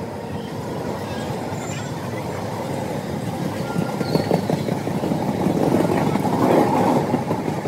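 Passenger train coaches passing close by at speed: a steady rumble and rattle of wheels on the rails, with a run of sharp clicks about four seconds in and growing louder toward the end.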